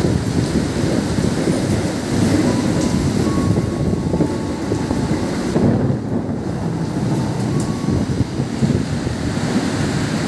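Container freight train rolling past, its steady rumble mixed with heavy rain and wind buffeting the microphone.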